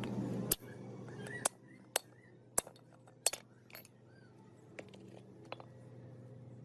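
A handful of sharp, separate clinks of hard objects, the loudest about half a second in, over a faint steady hum. A few faint short chirps sound between them.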